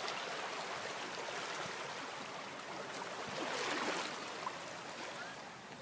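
Water washing in, with one stronger surge about three and a half seconds in.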